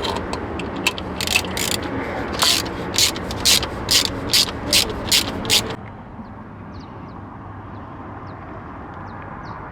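Ratchet wrench clicking in short repeated strokes, about two clicks a second. About six seconds in the clicking cuts off abruptly to a quieter steady background.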